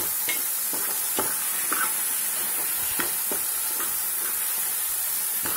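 Chopped tomatoes sizzling in hot oil with onion-spice masala in a metal pot, being stirred and cooked down until soft. The spoon knocks and scrapes against the pot now and then over a steady frying hiss.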